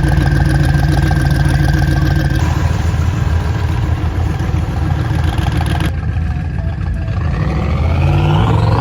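Engine running steadily, then revving up hard with a sharply rising pitch near the end, with sudden breaks in the sound partway through.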